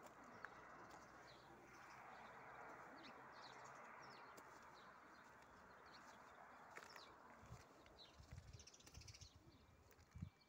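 Faint birds chirping, scattered short calls over a soft steady hiss. In the last few seconds low rumbles from the microphone come in.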